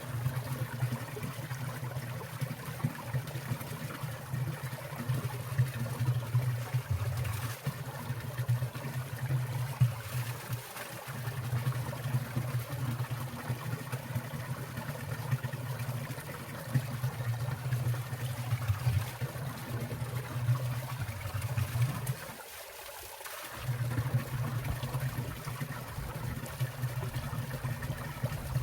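Water in a winter valley stream trickling and splashing steadily, with a low hum underneath that drops out briefly twice.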